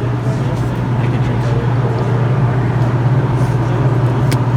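Car running, a steady low drone as heard from inside the cabin, with one sharp click about four seconds in.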